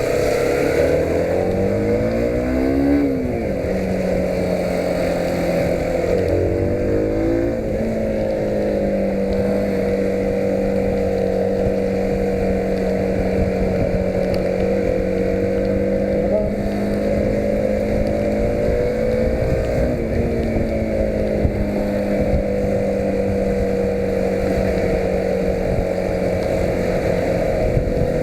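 Yamaha YBR125's single-cylinder four-stroke engine pulling up through the gears. Its note rises twice, each rise ending in a drop at the gear change, then it holds a steady cruising note.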